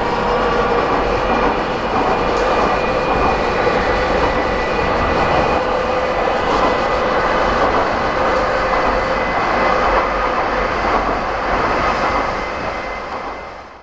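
A train passing, a loud steady rumble with several whining tones held through it, fading away near the end.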